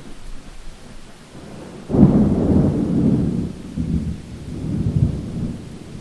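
Thunder in a rainstorm: about two seconds in a sudden crack breaks into a deep rolling rumble that swells and fades in waves, over a steady hiss of rain.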